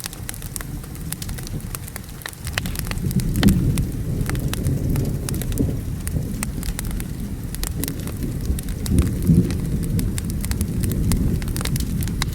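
Wood fire crackling with frequent sharp pops, over steady rain, with a deep rolling rumble of thunder that swells about two and a half seconds in and keeps rolling.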